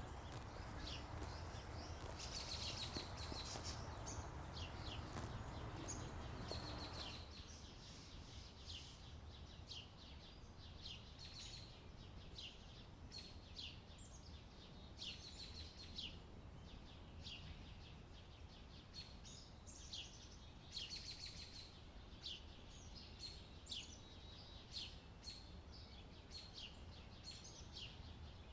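Small birds chirping repeatedly over faint outdoor ambience. A broad rushing background noise in the first seven seconds cuts off abruptly, leaving the chirps over a quieter background.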